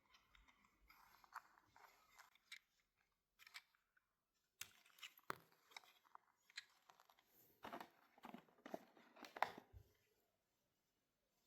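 Faint handling noise: scattered small clicks and crinkly rustling, with a busier run of sharper clicks and rustles in the second half.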